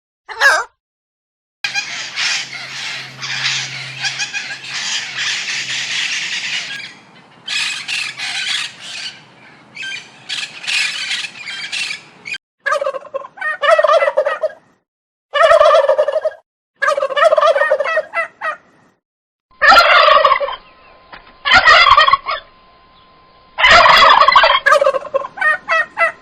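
Turkeys gobbling: a dense stretch of many overlapping calls, then a run of single gobbles about a second apart.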